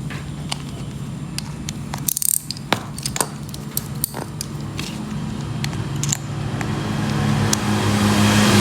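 Scattered light metal clicks and ticks of hand tools on a motorcycle starter motor being bolted back together, with a short scraping rush about two seconds in. Under them runs a steady engine hum that grows louder near the end, as a motor vehicle draws near.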